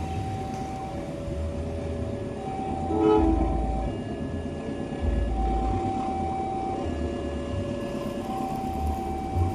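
A train passing with a steady low rumble. Over it, a repeating pattern of held tones switches back and forth between two pitches about every second, with a brief louder burst about three seconds in.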